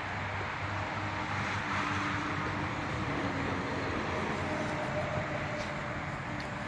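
Steady road traffic noise: a continuous hiss of passing cars with a faint, low engine hum.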